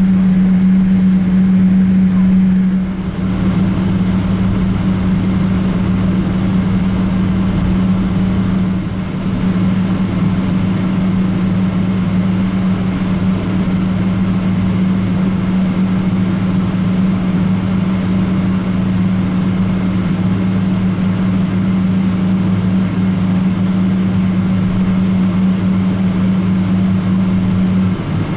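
Boeing 777-200ER jet engines heard from inside the cabin, running steadily with a strong, even hum. The sound shifts slightly about three seconds in, and the hum's main tone stops shortly before the end.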